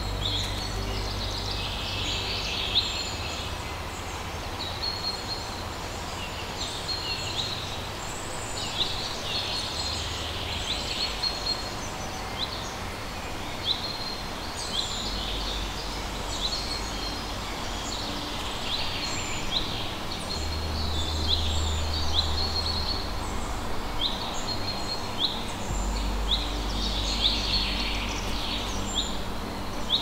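Birds calling throughout, many short, high chirping notes repeated again and again with denser flurries now and then, over a low rumble that swells and fades.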